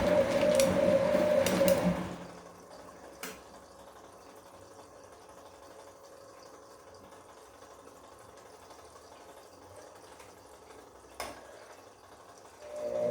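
Bosch Komfort-Klasse front-loading washing machine in its wash cycle: the drum motor whines steadily over sloshing water, then stops about two seconds in. A long pause follows with only a faint hum and two sharp clicks, and the drum starts turning again near the end.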